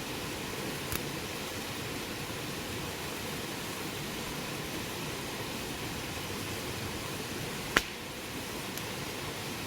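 Wood fire burning with a steady hiss, with a faint pop about a second in and a sharp, loud crack of burning wood near the end.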